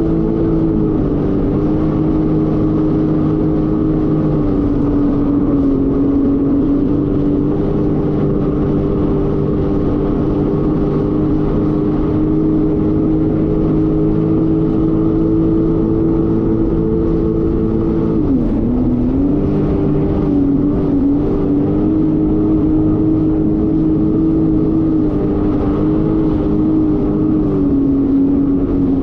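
Jet ski engine running steadily at speed on open water, its pitch dropping sharply for a moment about two-thirds of the way through as the throttle eases, then settling back, with smaller shifts in pitch elsewhere.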